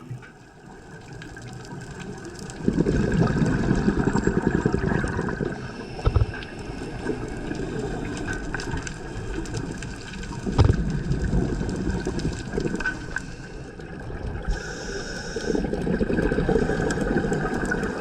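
Scuba diver's exhaled bubbles rushing from the regulator, heard underwater in long rushes a few seconds apart, with a couple of short dull knocks.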